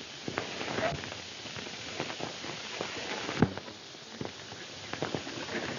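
Horse's hooves clopping in uneven knocks, one heavier strike about three and a half seconds in, over the steady hiss of an old film soundtrack.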